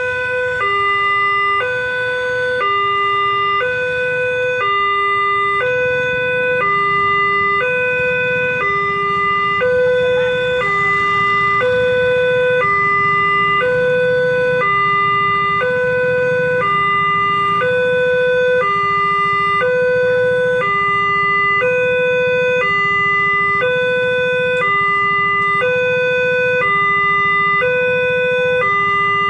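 Railway level-crossing warning alarm sounding a steady two-tone, high-low signal that alternates about once a second, warning that a train is approaching or passing. A low rumble sits under it from about six seconds in.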